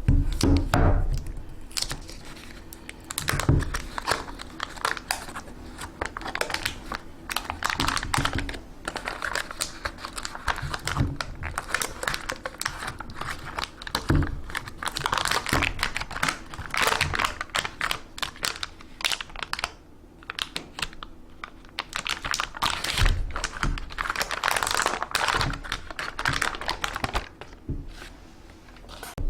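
Crinkling and rustling of plastic packaging, mixed with many light clicks and knocks of containers being handled.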